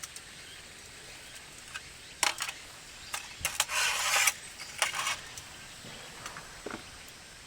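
A few sharp clinks and clatters of small hard objects being handled, with a short scraping rustle in the middle.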